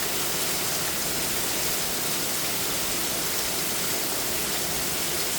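Torrential rain pouring straight down, a steady dense hiss with no break in it.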